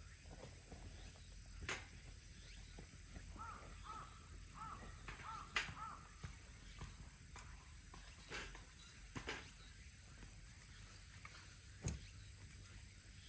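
Outdoor campsite ambience: a steady high-pitched insect trill, a bird calling a quick run of about seven short notes a few seconds in, and several sharp clicks or knocks scattered through.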